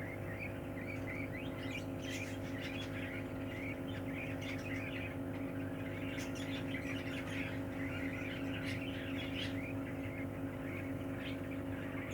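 Budgerigars chirping and chattering in quick, continuous short calls over a steady low hum.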